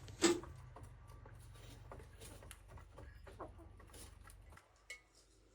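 Chickens clucking faintly, with scattered short calls and a knock near the start; a low background hum cuts off about four and a half seconds in.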